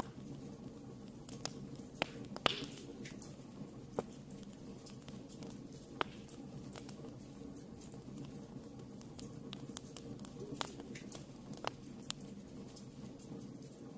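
Wood fire burning in a fireplace: a steady low rush of flame under scattered sharp crackles and pops, the loudest pop about two and a half seconds in.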